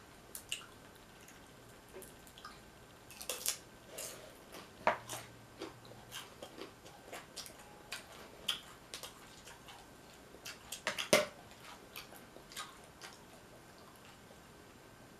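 Close-up eating sounds of nachos: tortilla chips crunching and being chewed, with irregular small crackles and clicks and a sharper crunch about eleven seconds in.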